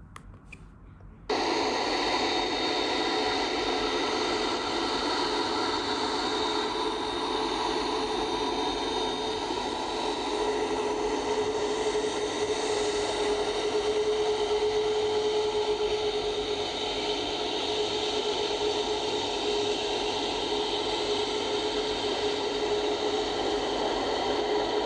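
Steady jet aircraft engine noise with a constant whine, cutting in abruptly about a second in and holding unchanged.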